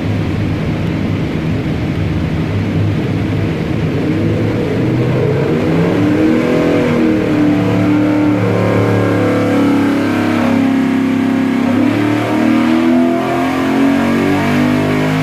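Ford Performance Coyote Aluminator 5.2 V8, its variable valve timing deleted and custom camshafts fitted for a muscle-car idle, running at a steady idle and then revved up and down repeatedly from about six seconds in.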